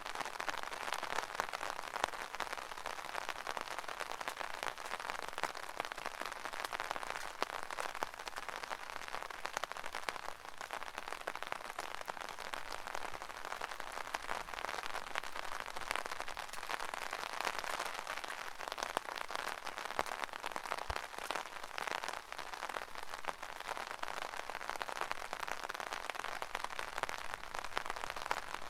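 Steady rain pattering on an umbrella canopy, many small drops ticking densely and evenly.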